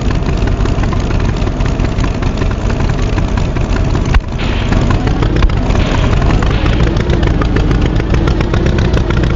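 Tractor engine running with a fast, steady chug, briefly cut off about four seconds in before carrying on.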